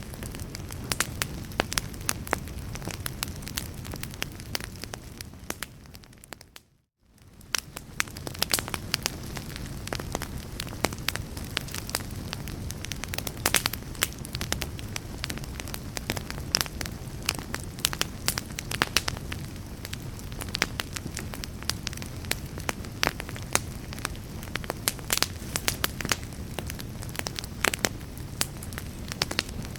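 Wood fire in a fireplace crackling, with frequent sharp pops and snaps over a low steady rumble of flames. About seven seconds in, the sound fades briefly to silence and comes back within a second.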